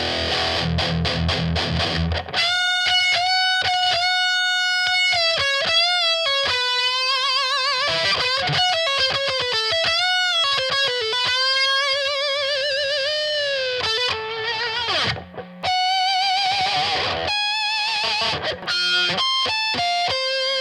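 Electric guitar played through an Aion FX Corona overdrive pedal, a DIY copy of the Boss OD-1: low chords for about two seconds, then single-note lead lines with bends and wide vibrato.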